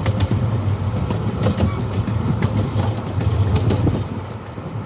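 Miniature amusement-park train rolling along its track, heard from aboard: a steady low rumble with irregular clicks and clatter from the wheels on the rails.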